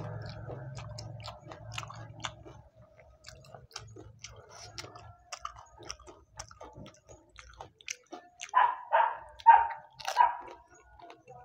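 Close-up mouth sounds of a person chewing pani puri with green chilli: many small wet crunches and clicks. Near the end, four loud, short, sharp sounds come about half a second apart.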